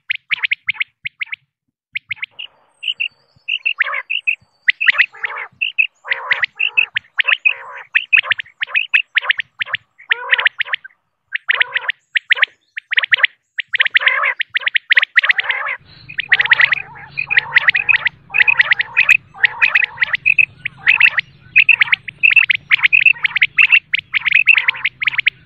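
Female common quail calling: rapid series of short, high chirping notes in bursts of about a second, repeated over and over. A low steady hum comes in about two thirds of the way through.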